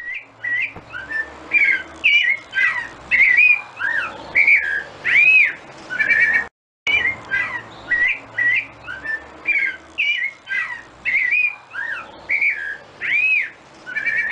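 Songbird song, a lively run of varied whistled notes that swoop up and down, a couple of notes a second. The song cuts out for a moment about six and a half seconds in, and the same passage then plays again.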